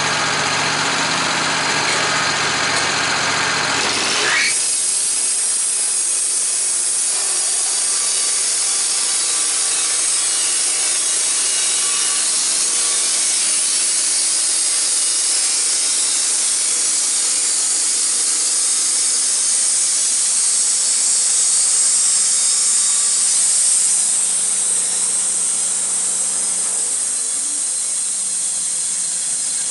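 An engine-driven saw runs, then about four seconds in the sound changes abruptly to a steady, hissing, high-pitched cut as the blade goes into wood. The cut continues without a break.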